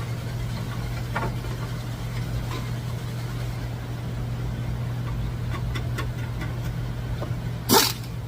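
A car running with a steady low hum, a few faint ticks, and one sharp knock near the end.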